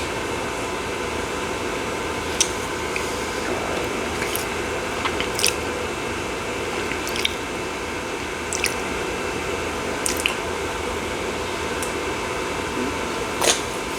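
Short wet mouth clicks and lip smacks, about seven spread over the stretch, from someone tasting a citrus energy drink, over a steady background hum.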